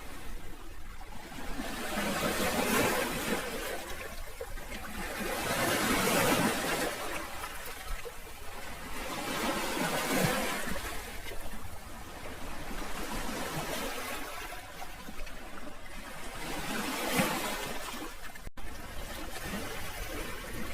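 Sea waves washing onto the shore: a continuous rushing hiss that swells and ebbs every few seconds as each wave breaks and draws back.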